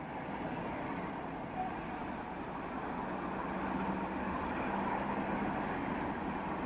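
Low, steady rumble of a distant train, slowly growing louder, with a low hum coming in about three seconds in.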